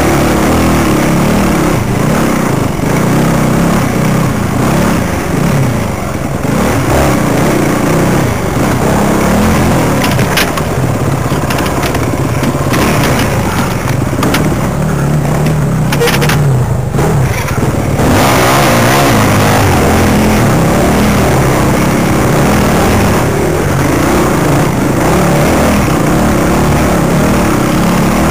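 Enduro motorcycle's engine running hard, its revs rising and falling continuously as it is ridden along a forest trail, heard loud from on board the bike.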